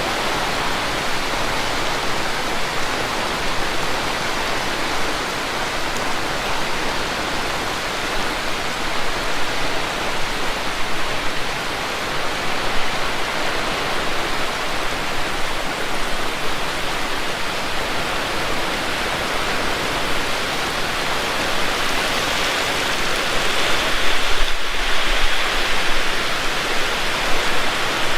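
Heavy rain pouring down steadily as a dense, even hiss, a little louder near the end.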